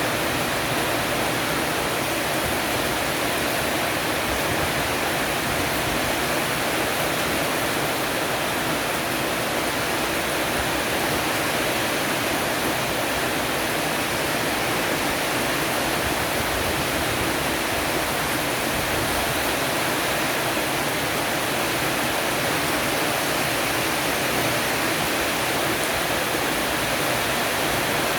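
Heavy rain shower falling on the eaves of a roof, an even, unbroken hiss.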